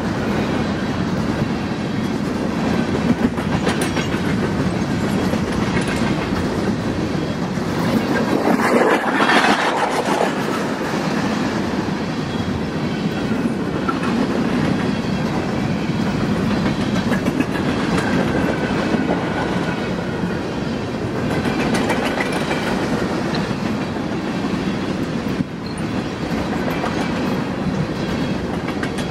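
Freight train of covered hopper cars rolling past: a steady rumble of steel wheels on rail with clickety-clack over the joints, briefly louder about nine seconds in.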